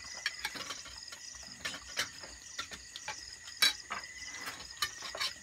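Crickets chirping steadily in the background, with scattered sharp clicks and knocks; the loudest knock comes a little past halfway.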